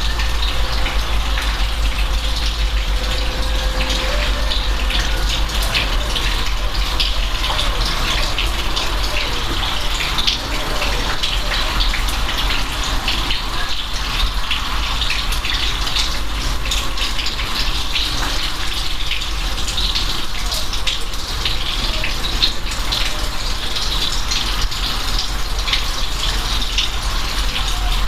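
Steady rain, a dense even wash of many separate drop hits, over a constant low rumble.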